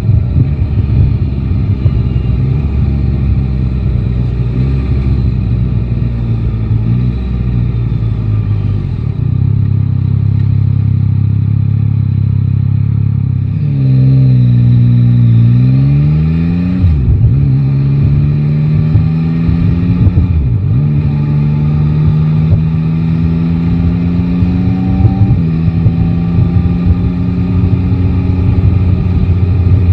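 Yamaha Tracer 9 GT's 890 cc inline-three engine running under the rider. About halfway through its pitch drops as the bike slows, then climbs steadily as it pulls away again.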